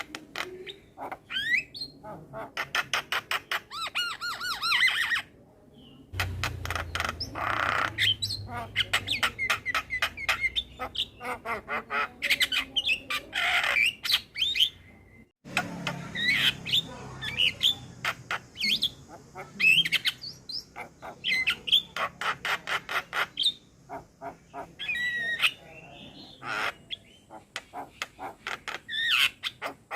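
Male Javan myna (jalak kebo) singing a long, varied song of rapid clicking rattles, harsh squawks and short whistles, with a sudden brief break about halfway through.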